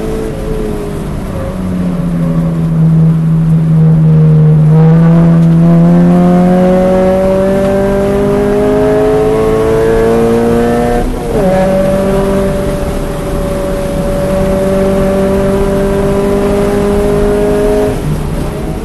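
2013 Scion FR-S's 2.0-litre flat-four engine under hard acceleration on track, heard from inside the cabin: the pitch climbs steadily, drops sharply at an upshift about eleven seconds in, then climbs again before falling away near the end as the driver lifts.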